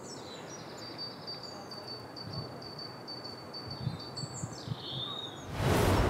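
A small bird calls outdoors in a steady series of short high notes, about three a second, with a falling whistle near the end. Near the very end a loud rushing noise sets in.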